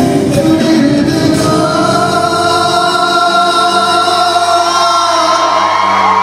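Live pop ballad over a concert sound system: a singer holds long, steady notes over the band.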